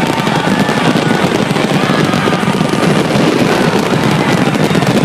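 Fireworks display going off without a break in dense crackling and popping, with music playing over it.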